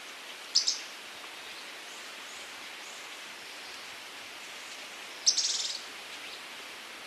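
Scaled antbird calling: a short, high double note about half a second in, then a longer fast rattle of rapid pulses about five seconds in that fades away, over a steady background hiss.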